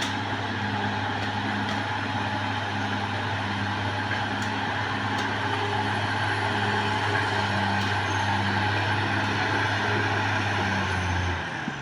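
Caterpillar D6R XL bulldozer's diesel engine running steadily, with a few faint clicks, dropping in level just before the end.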